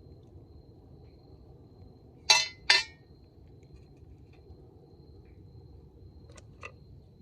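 Kitchenware clinking: two sharp, ringing knocks a little over two seconds in, then two fainter clinks near the end.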